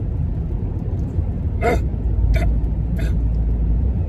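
Steady low rumble of a car's cabin, with three short breathy sounds from a person, about a second and a half, two and a half and three seconds in.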